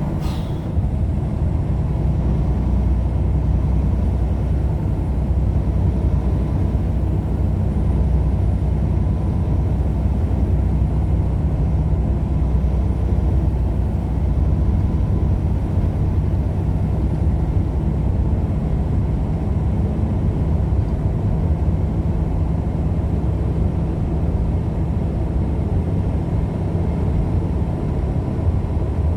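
Steady road and engine rumble inside a moving vehicle's cabin, deep and even throughout, with a faint steady whine above it.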